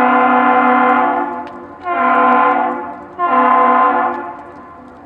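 Great Lakes freighter's chime whistle sounding the long-long-short-short master's salute: a long blast ends about a second in, followed by two shorter blasts, each a steady chord of several tones.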